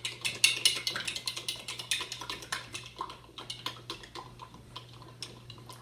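A spoon stirring yeast mixture in a cup, a rapid run of light clicks and taps against the cup that thins out and grows quieter over the last couple of seconds.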